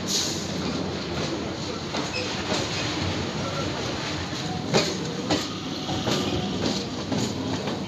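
Eastern Railway electric multiple-unit (EMU) suburban local train rolling past close by, its wheels rumbling and clattering over the rails with repeated sharp clicks. Two louder knocks come a little past the middle.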